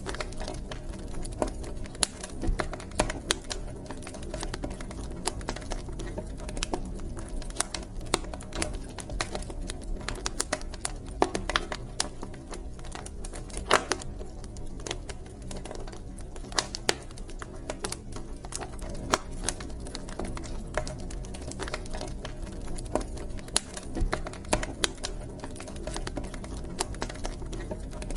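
Wood fire burning in a fireplace: constant irregular crackling and sharp pops over a steady low roar of the flames.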